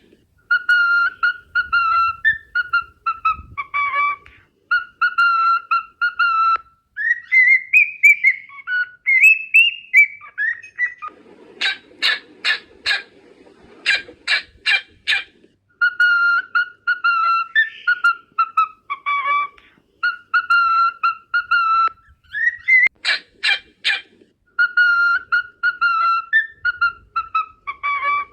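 Cockatiel whistling a repeated melodic phrase of clear notes, with gliding rising-and-falling notes in places. Short runs of rapid, harsh chirps break in three times.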